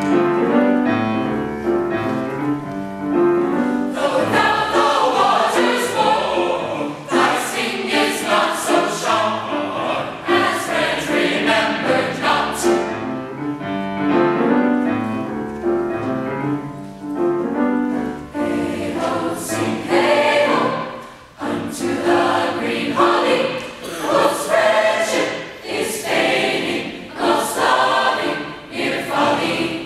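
A choir singing a choral piece, many voices in harmony, with a short break in the sound about two-thirds of the way through.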